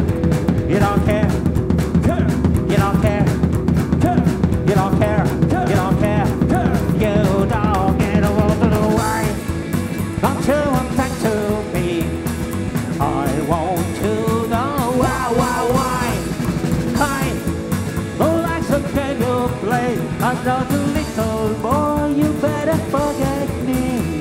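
Rock band playing live: drums, bass and electric guitar under a wavering melodic line, with the mix dropping a little about nine seconds in.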